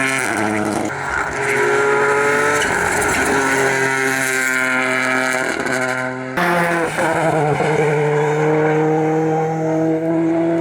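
Rally car engine at high revs on a special stage, the pitch dropping at each gear change. About six seconds in, the sound cuts abruptly to another car running hard.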